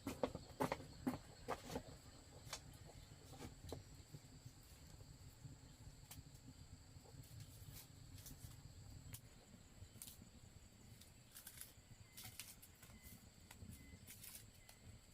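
Faint outdoor ambience, near silence, with a run of soft footsteps or knocks in the first couple of seconds and scattered light clicks after.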